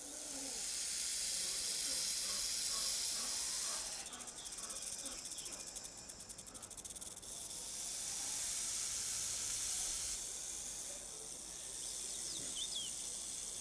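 Horned viper hissing: long, breathy hisses that swell in over the first couple of seconds and take on a fast flutter in the middle, with faint chirps in the background.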